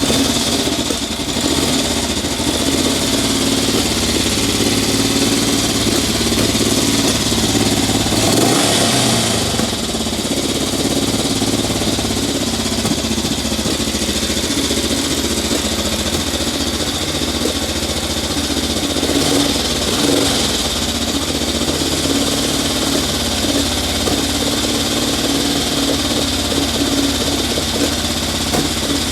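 1967 Honda CL77 305 Scrambler's parallel-twin engine running just after a cold kick-start without choke, a steady fast idle. The revs lift briefly about eight seconds in.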